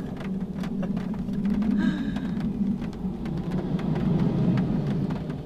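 Rain falling on a car's roof, heard from inside the cabin: a dense patter of small taps over a steady low hum.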